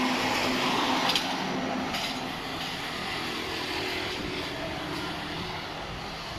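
A motor vehicle passing on a street, loudest in the first second or so, then fading into steady traffic noise.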